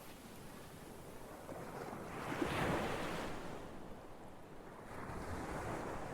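Ocean waves washing onto a shore, one wave swelling and breaking about two and a half seconds in, then ebbing, with a softer swell near the end.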